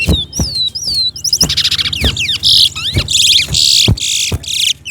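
Caged towa-towa seed finch singing: a few clear whistled slurs, then about a second and a half in a long run of fast, buzzy trills that stops just before the end. It is one full song of the kind counted in a bird race. A few dull knocks and a low steady hum lie underneath.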